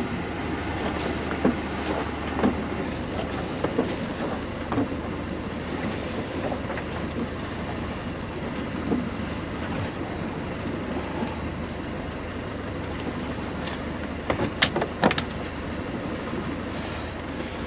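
Nets being hauled aboard a small fishing boat: a steady low running noise with irregular knocks and clatters, several sharper knocks close together near the end.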